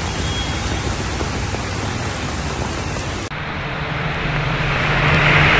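Heavy rain hissing on a road with vehicles driving through it. About three seconds in, the sound cuts to another recording where the rain grows louder and a vehicle engine's low hum comes in under it.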